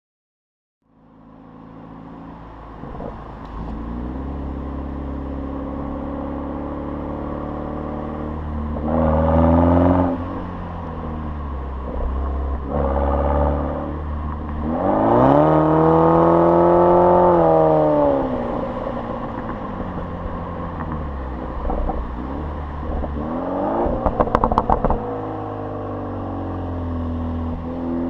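BMW 428i's 2.0-litre turbocharged four-cylinder running through an M Performance exhaust while being driven in low gears. The revs climb and drop back several times, and the longest pull rises, holds and falls away. Near the end there is a quick burst of sharp clicks.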